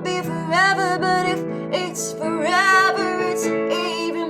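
A singer with acoustic guitar accompaniment, singing long held notes that waver with vibrato over sustained guitar chords.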